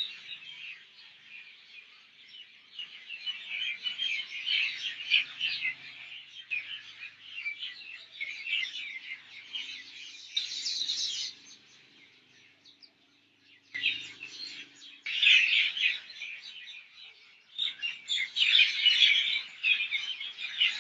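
Many small birds chirping together, a dense chorus of short, high chirps that falls almost quiet twice for a second or so in the second half.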